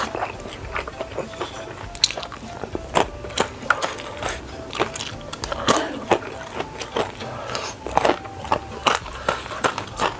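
Close-miked chewing of a mouthful of noodles: irregular wet mouth clicks and smacks, with wooden chopsticks picking noodles off a wooden board.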